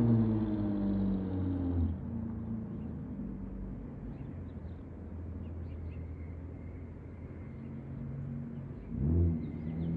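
Chevrolet Impala with a straight-pipe exhaust (no catalytic converter, no resonator, no rear mufflers, only the mid muffler) driving away, its exhaust note dropping in pitch and fading to a low steady rumble. About nine seconds in it swells briefly with a short rev. Faint bird chirps sound in the background.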